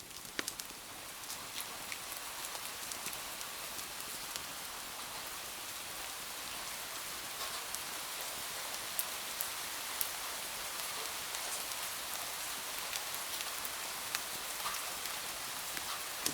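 Steady rain falling, a dense hiss with scattered sharp drop ticks, swelling up over the first couple of seconds and then holding even.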